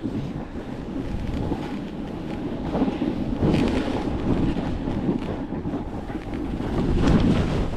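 Strong wind buffeting the microphone: a continuous low rumbling roar with no tones, swelling in gusts about halfway through and again near the end.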